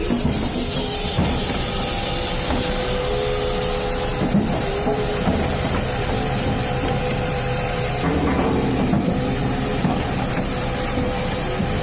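A machine running steadily, with an even mechanical noise and a constant whine, and a few brief knocks.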